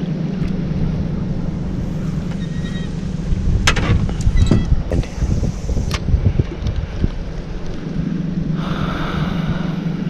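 A boat motor running steadily under wind noise on the microphone, with a few sharp knocks and a short hiss near the end.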